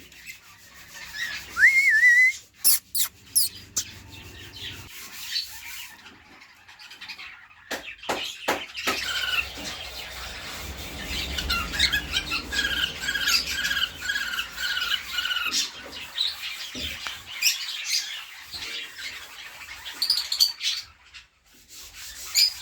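Pet budgerigars and lovebirds chirping and whistling, with a run of about eight quick repeated calls in the middle and a few sharp clicks.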